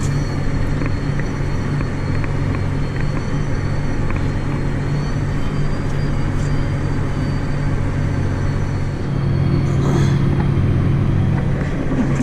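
John Deere 8320R tractor's six-cylinder diesel engine running steadily under load while pulling a tillage shank, heard from inside the cab. A faint steady high whine sits over the engine drone, and the engine grows a little louder about nine seconds in.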